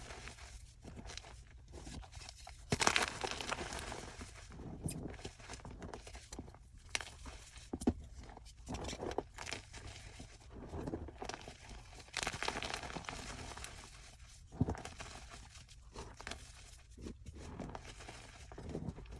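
Blocks of gym chalk being crushed, giving soft, irregular crunches and crumbling crackles, with a few sharper cracks where a piece gives way.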